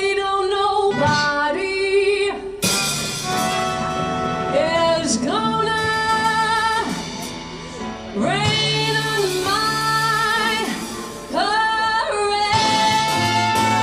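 A woman singing a Broadway show tune live over band accompaniment, holding long notes with vibrato.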